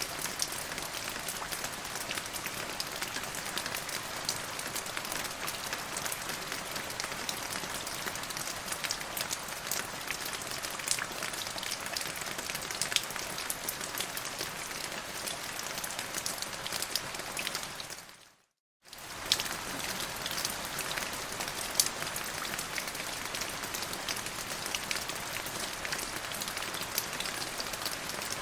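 Steady rain, with many fine drop ticks over an even hiss. About two-thirds of the way through it fades out, drops to silence for a moment, and resumes at the same level.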